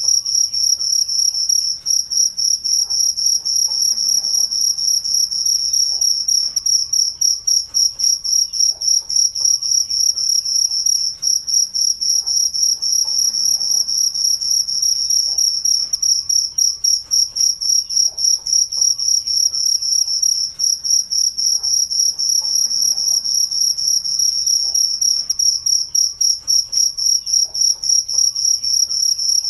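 Cricket chirping steadily in a fast, even, unbroken rhythm: one high-pitched trill repeated without pause.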